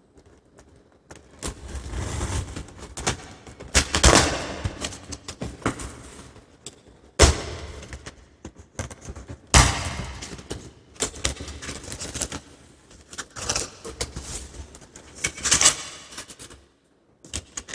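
A cardboard shipping box being opened and handled: irregular scraping and rustling of cardboard and packing, with several sharp knocks.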